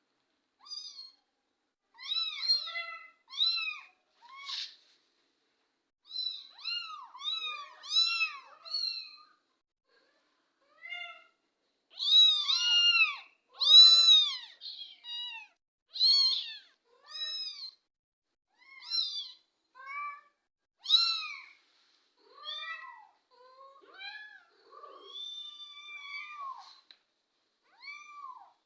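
Young kittens mewing over and over: short, high-pitched mews that rise and fall in pitch, coming in quick runs with brief gaps, loudest around the middle.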